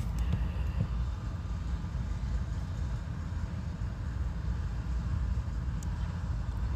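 Steady low rumble of an idling diesel engine, with a faint steady hum above it.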